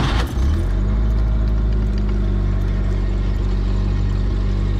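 1980 Jeep CJ7 engine just started, catching right at the beginning and settling into a steady idle within the first second.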